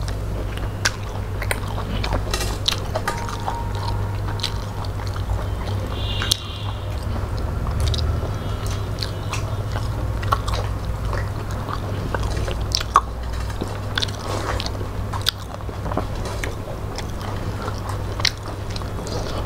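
Close-miked chewing and wet mouth sounds of two people eating rice and fish curry by hand, with many small scattered clicks, over a steady low hum.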